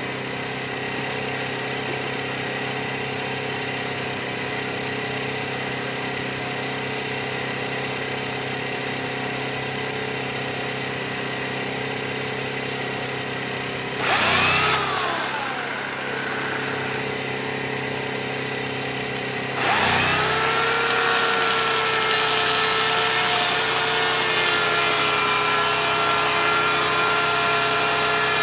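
A portable generator runs steadily. About 14 s in, the Oregon CS1500 15-amp electric chainsaw is triggered briefly: it spins up and winds down with a falling whine. About 20 s in, the saw starts again and runs on continuously, much louder, and the generator's note dips at the start as it takes up the load.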